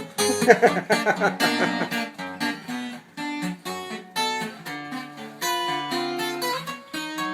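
Taylor 714CE steel-string acoustic guitar being play-tested after a neck reset and bridge re-glue: quick strummed chords for the first couple of seconds, then picked notes and ringing chords.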